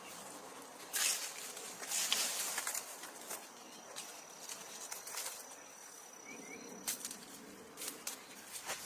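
Outdoor night-time-style ambience: an insect, such as a cricket, trilling on one steady high note for a few seconds, with short rustling noises now and then.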